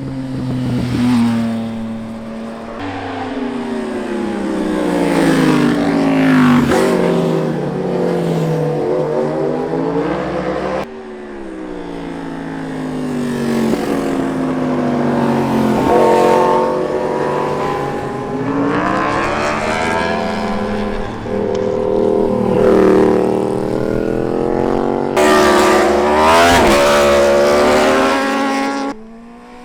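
Superbike engine ridden hard, its revs climbing under acceleration and falling off again and again, with sudden changes in pitch at gear shifts.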